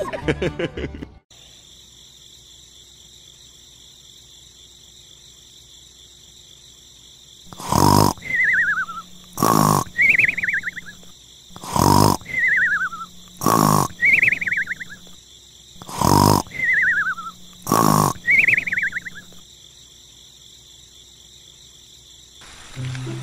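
Cartoon snoring sound effect: six loud snores about two seconds apart, each followed by a falling whistle, from a sleeping toy figure. A faint steady high-pitched night background runs underneath. At the very start, a cow's moo trails off.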